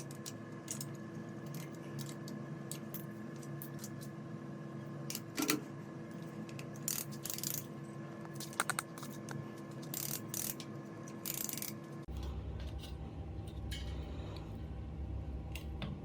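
Irregular small clicks and taps over a steady electrical hum. About twelve seconds in, a low hum comes in underneath.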